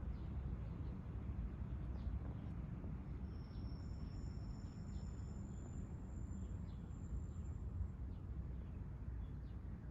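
Outdoor ambience: a steady low rumble with scattered faint, short high chirps. About a third of the way in, two long, thin, high whistling tones overlap and fade out by near the end.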